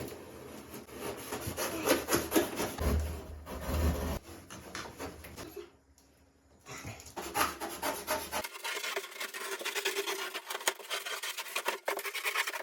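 Rubbing and rasping scrapes of hand work on a homemade fireplace surround as it is taken apart and cut down, in two stretches with a short pause about six seconds in.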